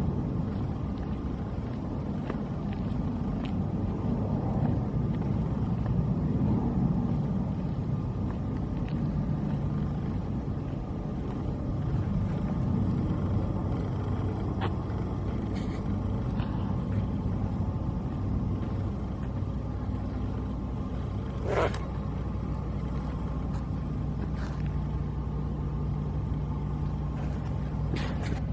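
Steady low rumble of an engine running, with a brief sharp squeak about three quarters of the way through.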